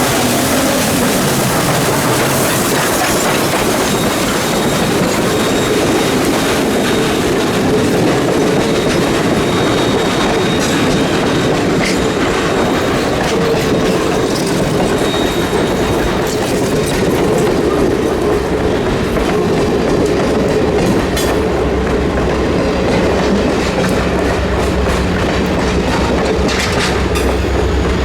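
Train rolling past, a steady heavy rumble with wheels clicking over the rail joints; a low steady hum joins in near the end.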